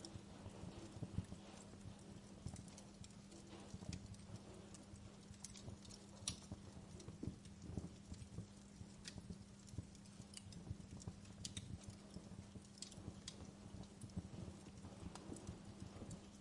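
Wood fire burning: irregular crackles and small pops over a low, steady rumble, with a faint steady hum underneath.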